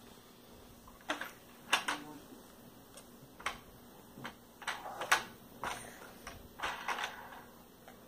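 Irregular hard clicks and knocks of a plastic toy airplane being handled and bumped, about a dozen sharp taps at uneven intervals.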